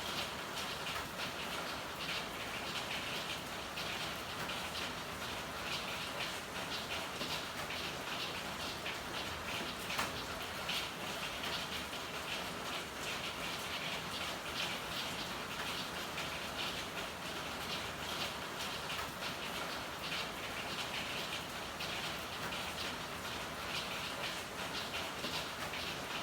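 Steady rain with a dense, even patter of drops and one sharper tap about ten seconds in.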